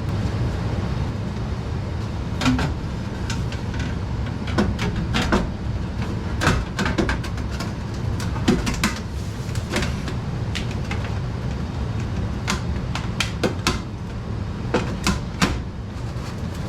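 Scattered knocks, clicks and clatter of things being handled and set down, some in quick runs, over a steady low hum.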